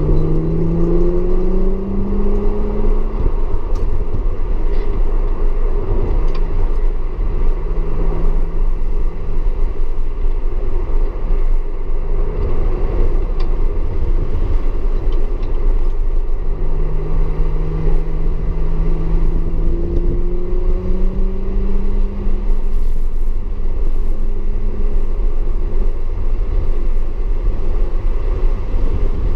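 Audi S4 engine under load on a wet track, over a heavy, steady low rumble of road and rain noise. The engine's pitch climbs over the first few seconds, holds for a while, then climbs again a little past halfway.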